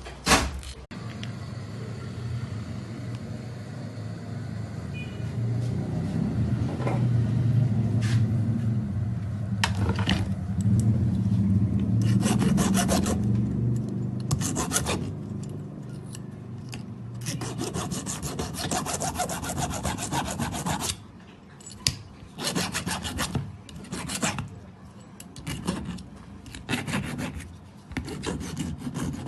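Repeated rasping back-and-forth strokes of a hand tool scraping or cutting a workpiece, with a steady low hum under the strokes from a few seconds in until about two-thirds through.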